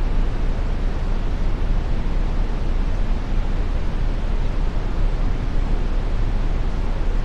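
Steady brown noise: an even, deep rushing hiss, strongest in the bass and fading toward the treble, unchanging throughout.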